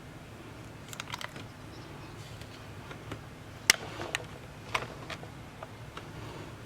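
A few sharp little clicks and taps of small tools and parts being handled on a workbench: a quick cluster about a second in, the loudest single click near the middle, then a few lighter ones after it.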